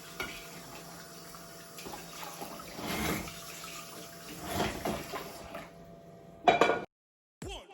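Water running from a tap into a kitchen sink, with a few brief knocks and a steady faint hum behind it, swelling near the end and then cutting off abruptly.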